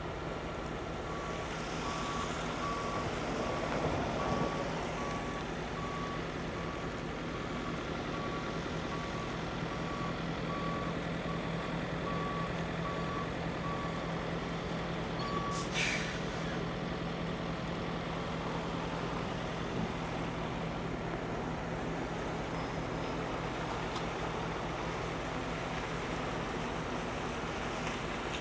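Heavy truck's diesel engine running steadily while its reversing alarm beeps about once a second for roughly the first 14 seconds, then stops. About 16 seconds in there is one short, sharp hiss.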